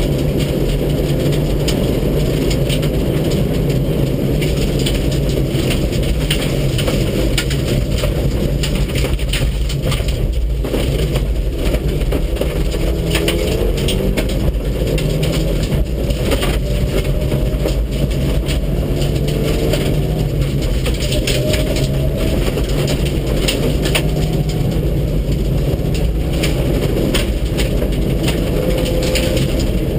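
Mitsubishi Lancer Evolution VII rally car's turbocharged four-cylinder engine pulling hard on a stage, heard from inside the car, with a dense rumble and constant clicking and rattling of gravel and stones against the underbody. The engine note climbs in places in the second half as it revs through the gears.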